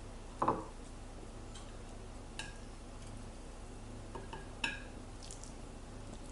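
Eating utensils clinking against a dish: a dull knock about half a second in, then two sharp clinks that ring briefly, with a few fainter taps between.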